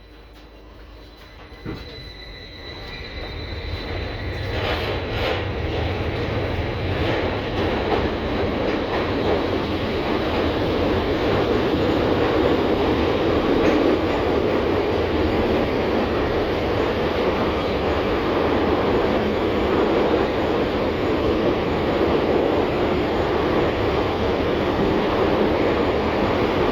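LVS-2009 tram pulling away: a thump about two seconds in and a brief high tone, then the running noise builds over the next ten seconds or so as it picks up speed, and it settles into a steady run along the rails.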